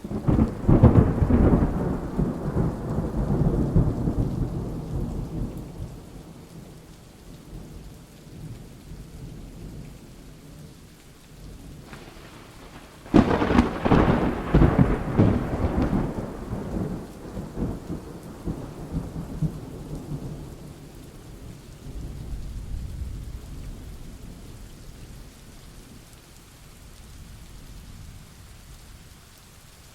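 Steady rain with two loud thunderclaps, one right at the start and one about halfway through, each rolling off in a long rumble over several seconds. A fainter low rumble of thunder comes a few seconds after the second.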